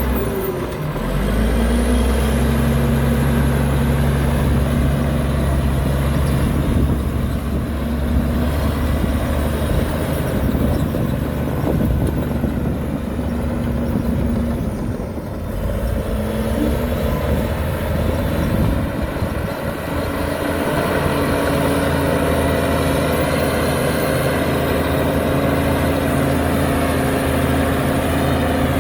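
Heavy diesel engine of earthmoving machinery running steadily, its pitch shifting a few times as the load or speed changes, with a faint high whine above it.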